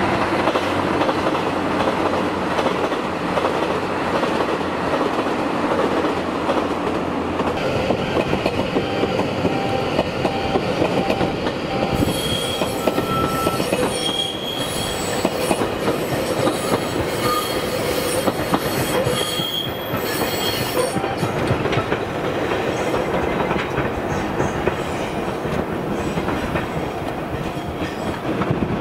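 JR Hokkaido limited express train passing at speed: a steady rumble and clatter of wheels on the rails, with thin high wheel squeals coming and going through the middle part.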